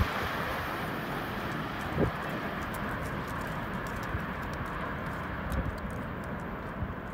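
Passenger train moving away down the line, its steady rumble slowly fading. There is a knock about two seconds in and light clicks over the next few seconds.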